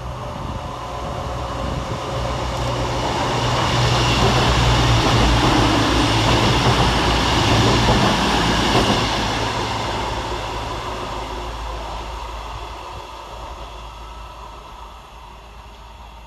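Class 221 Super Voyager diesel-electric multiple unit passing: a steady diesel engine note under wheel and rail noise, growing louder to a peak about four to nine seconds in, then fading away as the train recedes.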